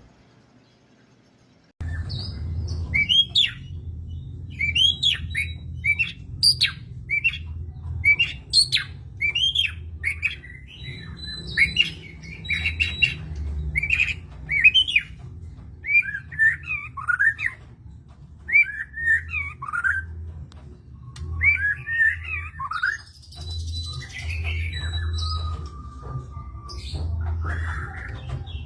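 White-rumped shama singing a rapid, varied song of whistled phrases that sweep up and down in pitch, starting about two seconds in, over a steady low hum.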